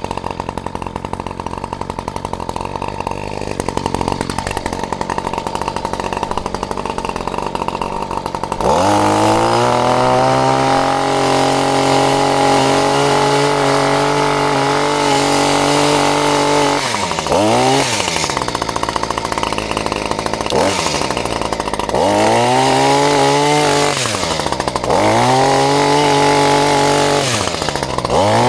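Petrol chainsaw running at low revs, then opened up to full throttle about a third of the way in. It runs high and steady, with the revs dropping and climbing back several times as the throttle is let off and squeezed again.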